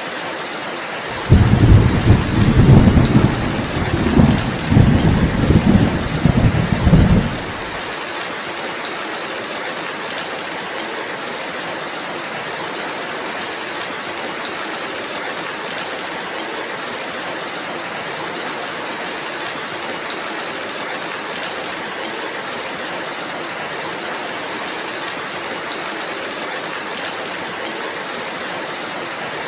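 Steady rain hiss. About a second in, a loud low rumble of thunder rolls in several swells for about six seconds, then stops, leaving the rain alone.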